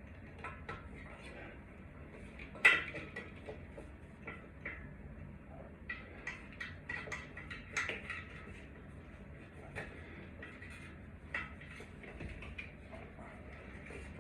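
Small metal parts and tools clinking and knocking while a ceiling fan is being worked on, with one sharp clank a little under three seconds in.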